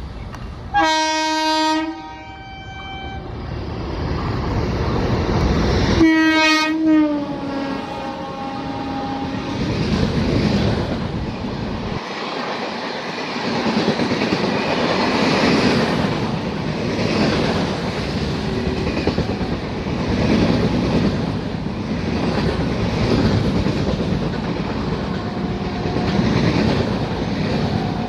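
Two blasts of an electric locomotive's horn: a short steady one about a second in, then a second one around six seconds in whose pitch drops as the WAP-7 passes. An express of LHB coaches then rushes past at speed, wheels clattering rhythmically over the rail joints.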